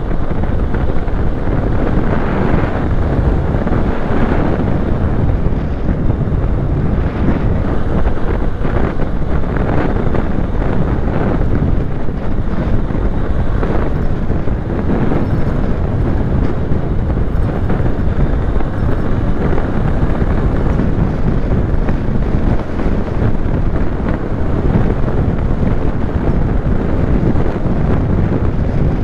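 Steady wind buffeting a helmet-mounted microphone on a moving motorcycle, with the bike's engine running underneath.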